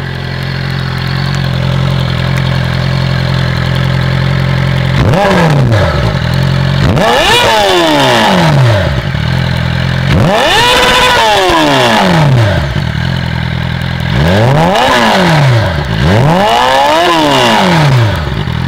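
Suzuki GSX-R600 inline-four motorcycle engine through a loud homemade custom exhaust: it idles steadily, then is revved about five times from about five seconds in, each rev rising sharply and falling back to idle.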